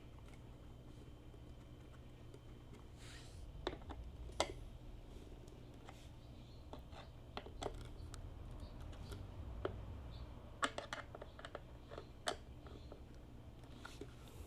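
Scattered light clicks and knocks from tools and parts being handled during motorcycle repair work, at irregular intervals, over a low steady hum.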